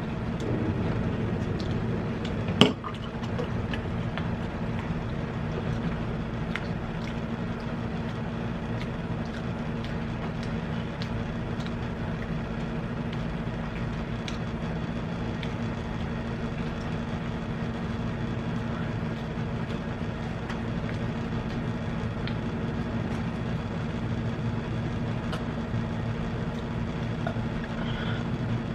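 A steady machine hum with small scattered clicks and ticks of eating and utensils, and one sharp knock about two and a half seconds in.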